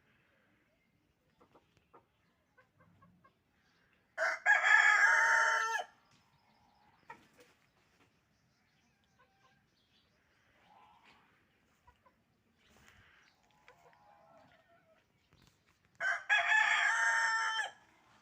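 Rooster crowing twice, about twelve seconds apart, each crow lasting nearly two seconds. Only faint scattered sounds come between the crows.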